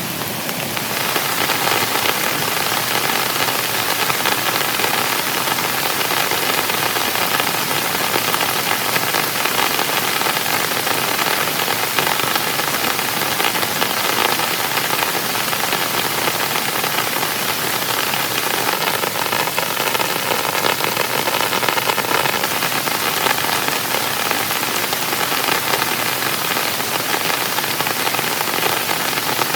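Heavy rain falling steadily, growing louder about a second in and then holding an even, dense hiss.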